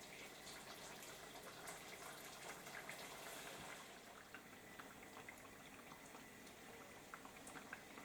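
Very faint bubbling of food cooking on the stove, a steady hiss with scattered small crackles and ticks.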